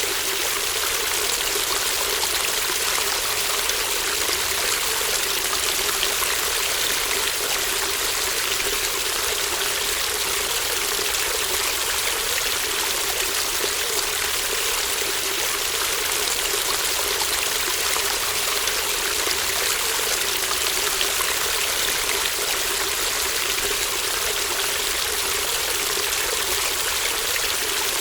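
Shallow stream burbling over stones, a steady babbling rush of water with fine trickling detail.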